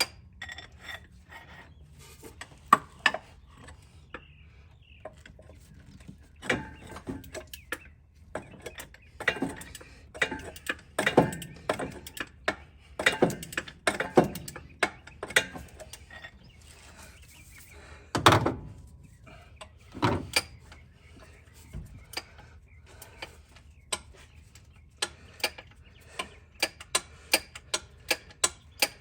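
Irregular metallic clanks and knocks from hand work on the car's engine bay, one heavier knock about two-thirds of the way through, then a run of evenly spaced ticks of about three a second near the end.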